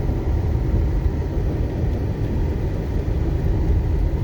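Steady low rumble of a vehicle driving, heard from inside the cabin: engine and tyre noise on a snowy road.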